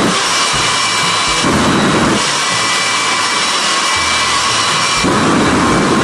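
Jet engine of a jet-powered school bus running at full power with its afterburner lit: a loud, steady rush of noise with a high turbine whine over it.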